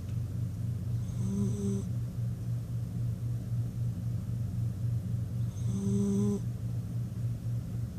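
Dog snoring: a steady low fluttering drone, with a short whistling note twice, about four seconds apart.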